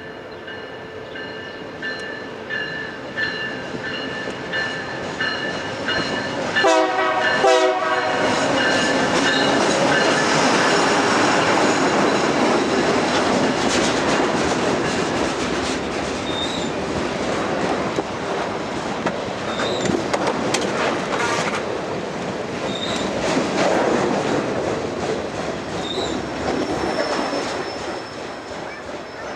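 Freight train passing close by, hauling lumber cars: a steady high horn-like tone for the first several seconds, then the loud noise and clatter of the cars' wheels on the rails from about eight seconds in, with short squeals now and then, easing off near the end.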